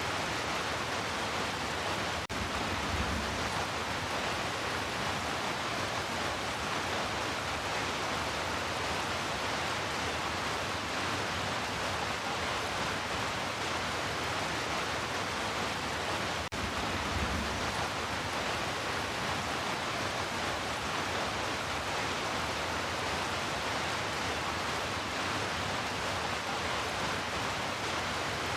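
Heavy rain falling as a steady, dense hiss, broken for an instant twice by a brief dip.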